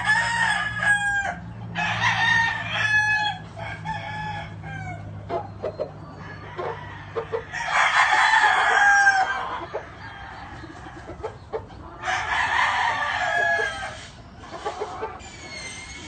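Gamefowl roosters (Sweater McGinnis Blueface) crowing several times, each crow lasting one to two seconds, with clucking and short clicks between the crows. A low steady hum runs under the first half.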